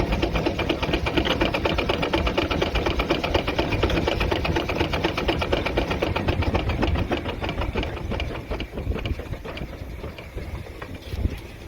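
Steam traction engine running fast, a rapid, even clatter of exhaust beats, about ten a second, which grows quieter over the last few seconds.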